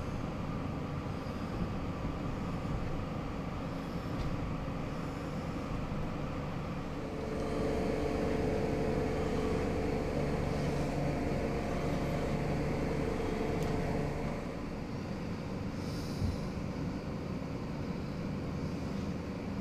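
Passenger train in motion: a steady rumble, with a louder whining tone that comes in for several seconds in the middle and then fades back.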